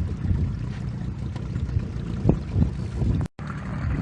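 Small boat's outboard motor running steadily, with wind buffeting the microphone. The sound cuts out for an instant a little over three seconds in.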